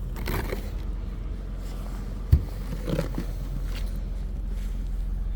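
Snow being scraped and brushed off a car, with crunching and scraping, a sharp knock about two seconds in and a softer bump a little later, over a steady low hum.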